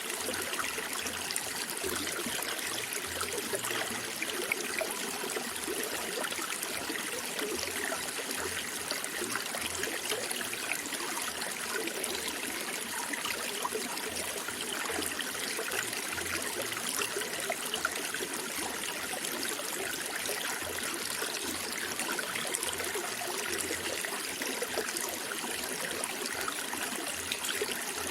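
Running water of a stream or brook, trickling and babbling steadily.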